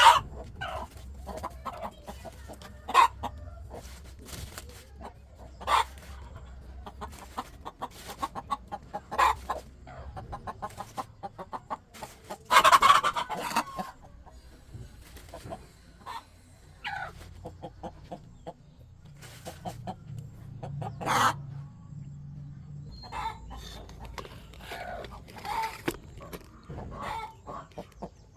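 Chickens clucking and calling in short, scattered notes, with a louder, longer call about 13 seconds in and another about 21 seconds in.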